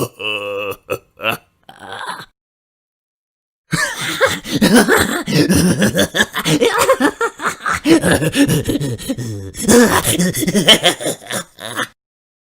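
Comedic vocal sound-effect clips: a low, buzzy burp-like sound with a few short vocal blips, a dead-silent gap, then about eight seconds of dense, rapidly broken voice sounds that stop abruptly.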